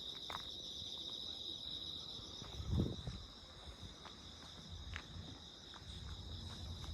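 Insects chirring steadily in one continuous high-pitched chorus, with a soft low thump about three seconds in and a few faint clicks.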